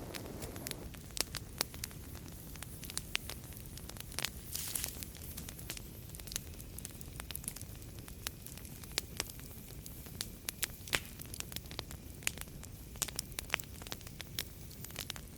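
Fireplace fire crackling: irregular sharp pops and snaps over a steady low rumble of flames, with a brief hiss about four and a half seconds in.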